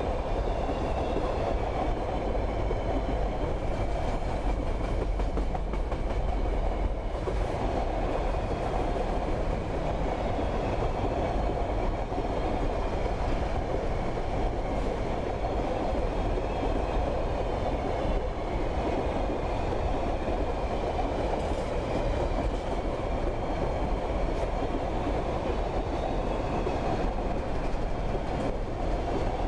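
Freight train of boxcars and covered hopper wagons rolling past close by, a steady rumble of steel wheels on rail with clickety-clack over the rail joints.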